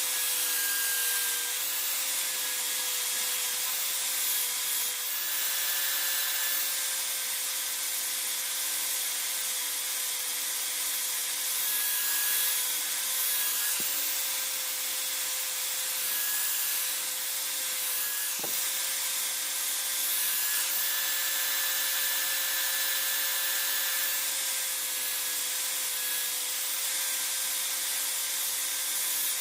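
Electric power tool running steadily, with a motor hum and a continuous abrasive rubbing hiss as it works the piece.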